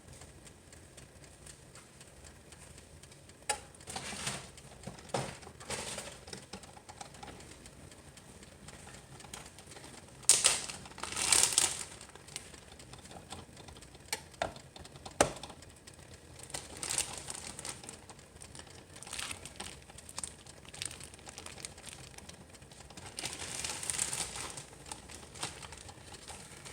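Intermittent rustling and crinkling with a few sharp clicks and knocks, the loudest cluster about ten seconds in.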